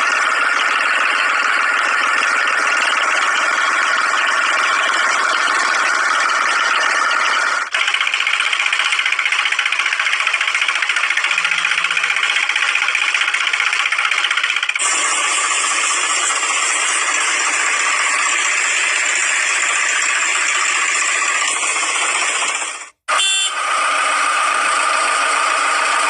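Small machine motor running with a steady, loud mechanical rattle and whine. The sound changes abruptly about 8 and 15 seconds in and cuts out briefly near the end.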